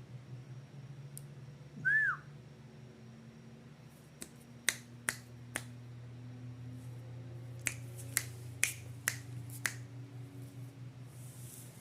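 About nine sharp finger snaps in loose groups, starting about four seconds in. Earlier, near two seconds, comes one short high squeak that rises and falls. A steady low hum lies under it all.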